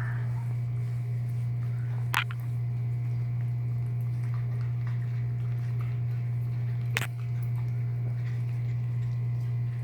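Seven-week-old Chihuahua puppies eating chicken and dry kibble, with faint chewing and smacking. A steady low hum sits under it, and two sharp clicks come about two seconds in and again about seven seconds in.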